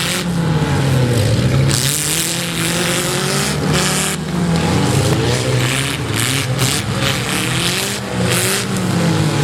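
Demolition derby cars' engines running and revving unevenly, the pitch rising and falling, with short bursts of harsh noise every second or two.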